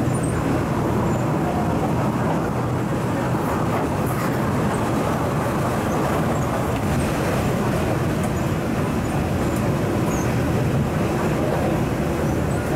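MTR East Rail MLR electric multiple unit running on the line, heard from inside the carriage: steady running noise with a low hum.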